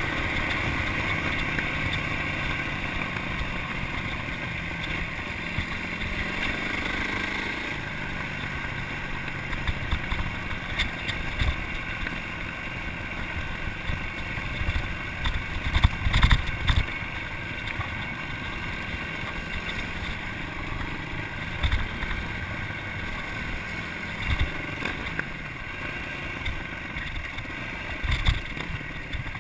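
Yamaha dirt bike's engine running while riding a dirt trail, its pitch shifting with the throttle about seven seconds in, with a few sharp knocks from the bike over bumps, the loudest about sixteen seconds in.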